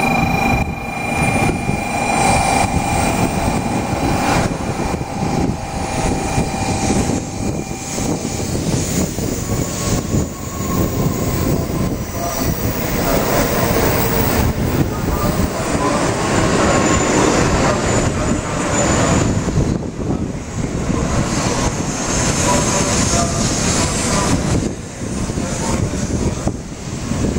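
N700-series Shinkansen train pulling in along a station platform at low speed: a continuous rumble of wheels on rail and air rushing past the cars, building as the cars slide by. A steady whine of several pitches runs under it and stops about eight seconds in.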